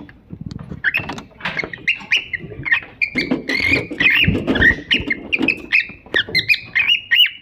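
A pair of cockatiels chirping in many short calls, sparse at first and coming thick and fast from about three seconds in, over scratching and rustling.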